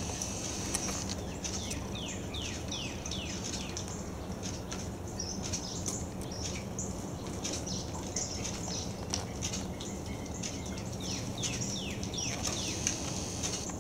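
Wild birds calling: runs of quick falling notes, a few a second, about a second in and again near the end, over steady high chirping.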